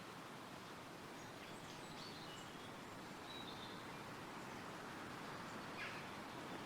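Wind rustling through forest trees as a steady, faint hiss, with a few faint, short bird chirps, one more call near the end.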